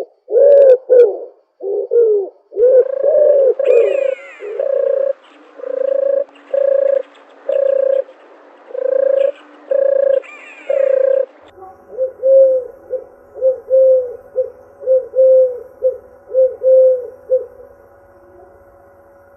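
Dove cooing: a long run of low coo notes at about one a second, then a fainter, quicker series at about two a second over a steady hum.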